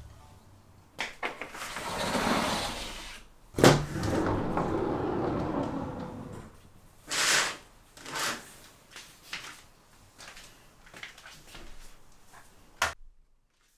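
A sliding window being moved along its track: a long rolling, scraping slide with sharp knocks as the sash and frame meet, then a few shorter slides and small clicks.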